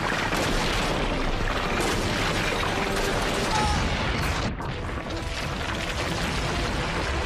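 Stone-breaking sound effect: a continuous dense crumbling and rumbling of rock, with a brief lull about four and a half seconds in.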